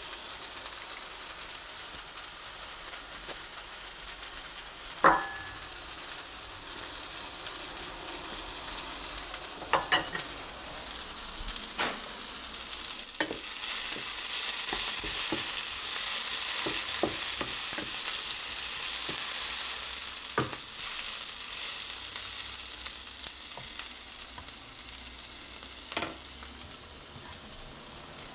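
Fajita filling sizzling as it fries in a pan while being stirred, the sizzle swelling louder about halfway through. A few sharp knocks of a utensil against the pan; the first one rings briefly.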